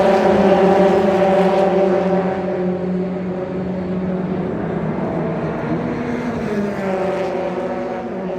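Race car engine running at steady revs, its note dipping slightly past the middle and rising again near the end.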